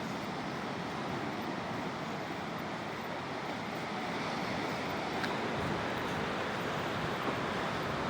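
Sea surf washing ashore: a steady rushing of waves that swells a little about halfway through.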